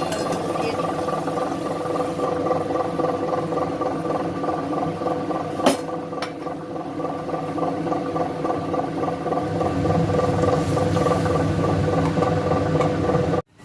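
A running motor giving a steady hum, with a single sharp click a little before the halfway point; the hum cuts off abruptly near the end.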